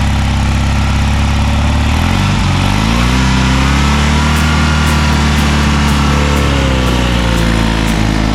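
Classic rally car's engine running close by, idling, then rising in pitch about two seconds in, holding higher, and settling back down near the end.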